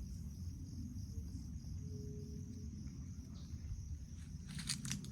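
A steady high-pitched insect chirring, likely crickets, over a constant low rumble. A short rustle comes near the end.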